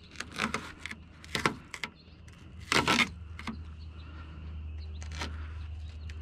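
Tape being peeled off in several short rips and rustles, the loudest about three seconds in. A low steady hum comes in about halfway.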